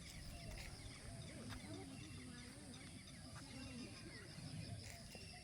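Faint, distant voices of people talking, over a steady high-pitched background with a fast, even pulse.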